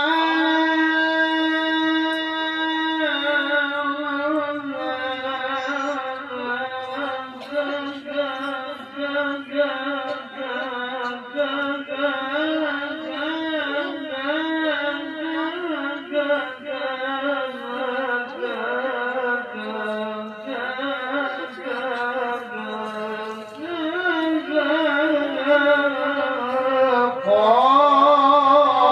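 Male Quran reciter's voice in a long melismatic tilawah phrase. It opens on one note held for about three seconds, then moves into a long, wavering ornamented run that climbs in pitch near the end.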